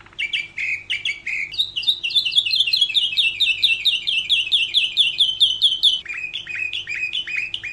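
Domestic canary singing: long rolls of rapid, evenly repeated notes, about eight a second. About six seconds in it switches to a slower roll of deeper notes that sweep down in pitch.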